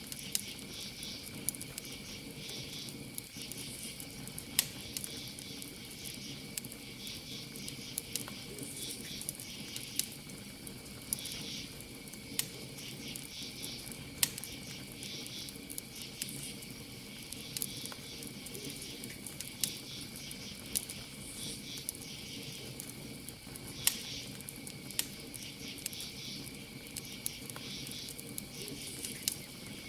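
Campfire crackling with frequent sharp pops, the loudest about 4.5 and 24 seconds in, over crickets chirping steadily in a high trill with pulsing higher chirps.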